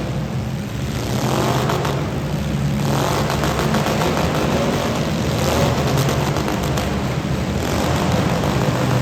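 Demolition derby car engines running loud, with the revs rising and falling several times over a steady low engine drone.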